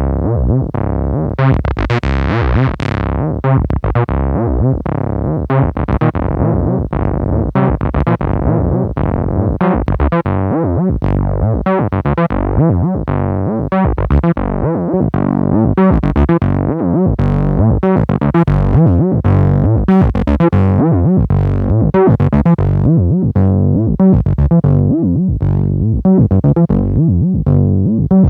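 Geosync TB-Valhalla, a 303-style synthesiser, playing a fast sequenced bass line. Each note opens with a bright filter snap that closes quickly, several notes a second, with the pitch stepping between notes.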